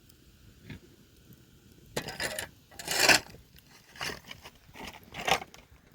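Shovel scooping into stony soil: four crunching, scraping strokes about a second apart, beginning about two seconds in, the second one loudest.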